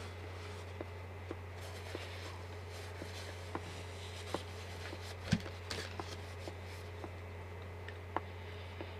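Quiet eating sounds from a man chewing potatoes: small scattered clicks and soft mouth noises over a steady low hum, with one louder thump a little past halfway.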